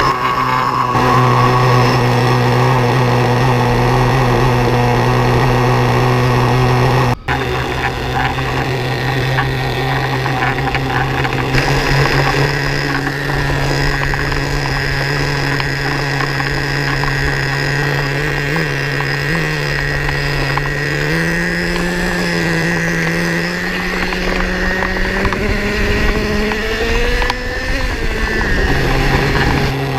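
Losi 3.4 nitro engine of a Traxxas Revo 3.3 RC truck running at a steady pitch. The sound cuts out for an instant about seven seconds in. Later the engine's pitch steps up, once about two-thirds of the way through and again near the end.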